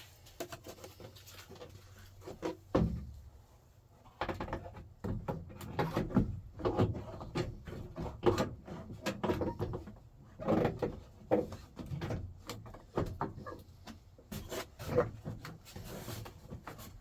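Irregular clicks, knocks and light rattles of hand work on a truck door's parts, with one heavier thump about three seconds in.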